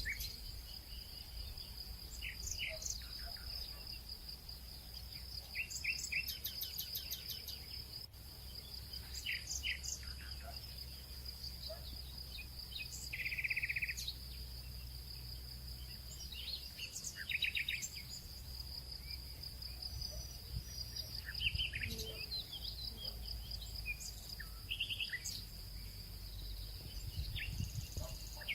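Nature ambience: a steady, high insect trill runs without a break while birds chirp on and off, in short quick runs of notes.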